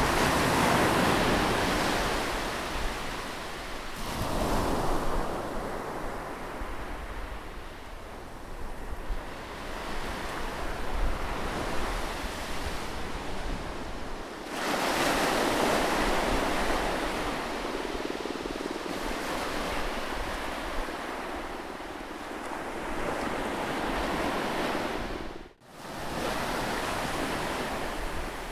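Ocean waves breaking and washing up the shore, swelling and ebbing, with a big surge at the start, a smaller one a few seconds later and another big one about halfway through. The sound cuts out for an instant near the end.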